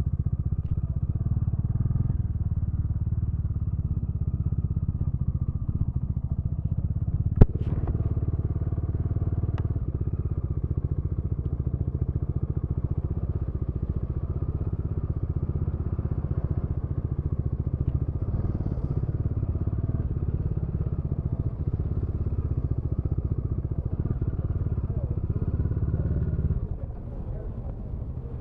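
Motorcycle engine running steadily, with one sharp click about a quarter of the way in; the sound drops off abruptly near the end.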